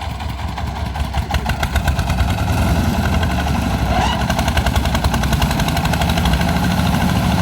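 Engine running steadily with a fast, even pulsing, growing louder about two seconds in.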